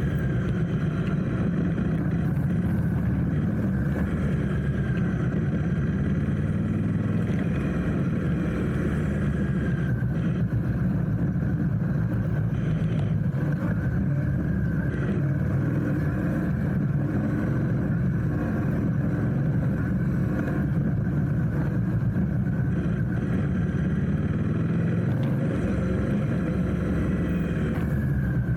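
Motorcycle engine running steadily under way in traffic, heard from on the bike.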